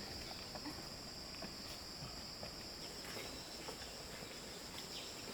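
Steady high-pitched chorus of insects, such as crickets or cicadas, with a few faint scattered clicks.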